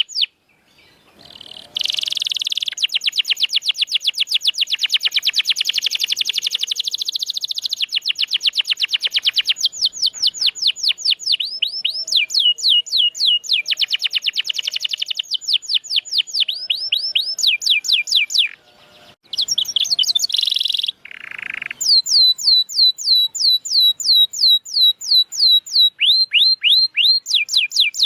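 Domestic canary singing long, fast trills of repeated falling whistled notes, about five or six a second, with brief breaks between phrases.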